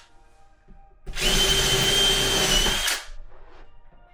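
Power drill running once for about two seconds at a steady speed with an even whine, drilling into a drawer front.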